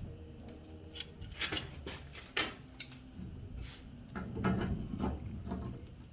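Scattered light knocks and clicks of hands working on pipe fittings and valves, over a low steady hum.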